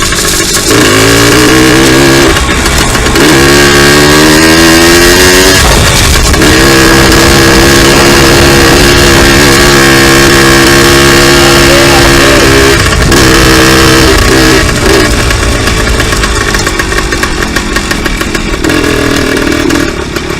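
Two-stroke dirt bike being ridden: the engine revs rise twice in the first six seconds, hold a steady high pitch for about six seconds, rise once more briefly, then the engine sound gets quieter near the end.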